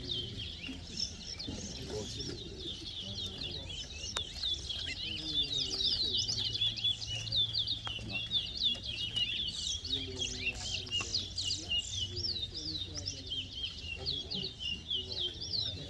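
Towa-towa (chestnut-bellied seed finch) singing a fast, unbroken run of high chirping whistled notes, with a low murmur of voices underneath.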